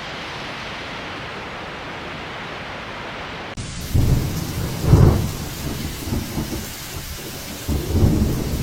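Storm noise: a steady even hiss, then after an abrupt cut about three and a half seconds in, loud low rumbling gusts over a bright hiss, rising and falling twice, as from wind buffeting a microphone in a snowstorm.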